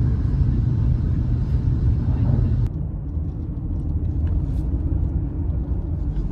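Steady low rumble of a train running, heard from inside the passenger car. About two and a half seconds in it changes abruptly to a slightly quieter, similar low running rumble of a moving vehicle.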